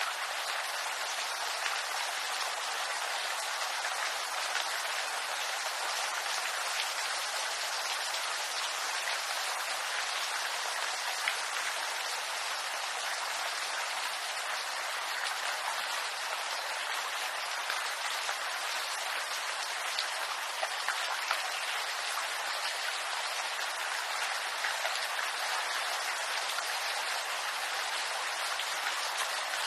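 Steady rain falling on bamboo leaves, an even hiss with countless small drop ticks.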